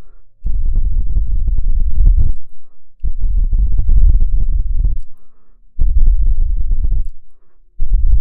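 Air blown hard and close onto an ASMR microphone in long rumbling puffs, about four of them with short pauses for breath between.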